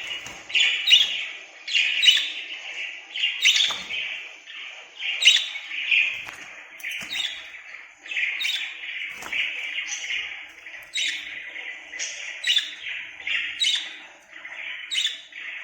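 Lovebirds calling: shrill chirps and squawks about once or twice a second over constant high chatter, a recording of lovebird calls played from a phone mixed with a pet pair answering it.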